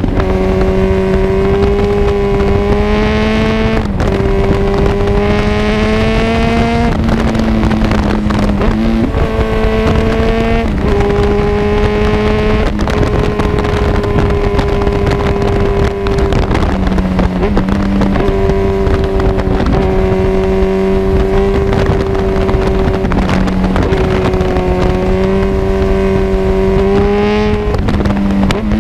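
Kawasaki Z1000 inline-four running through an Arrow full exhaust system while riding. The engine note climbs gently and then drops back several times as the rider changes gear and throttle, over steady wind noise on the microphone.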